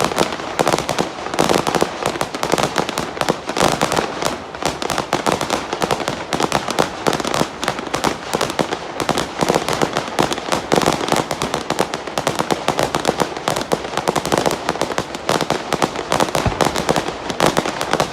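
Fireworks display: a dense, continuous rattle of rapid bangs and crackles with no pause.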